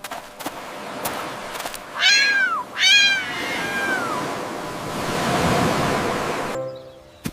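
Domestic cat meowing twice, the second meow longer and falling away at the end, over a steady background hiss.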